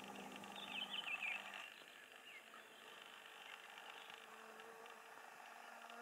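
Quiet forest air with a brief, faint, high twittering call about a second in, from a small bird.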